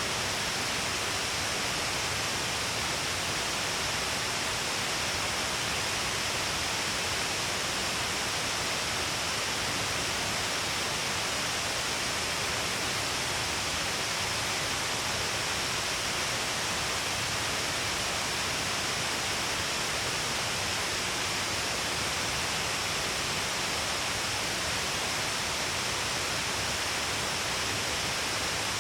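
Shiraito Falls, water falling all along a cliff face in many streams, making a steady, unbroken rush of falling water and spray.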